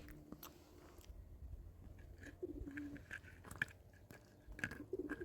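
A dove cooing twice, each call a low note that drops and then holds, with faint scattered clicks between the calls.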